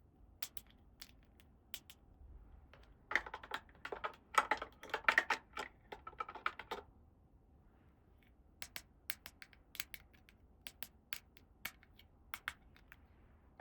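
Small plastic toy pieces being handled: scattered light clicks and taps, with a denser spell of clicking and rustling in the middle.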